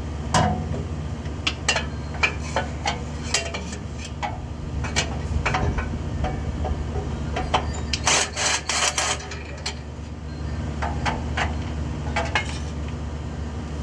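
Hand tools knocking, tapping and scraping on a vehicle's metal parts: scattered clicks and knocks, with a quick run of several loud strokes about eight seconds in, over a steady low hum.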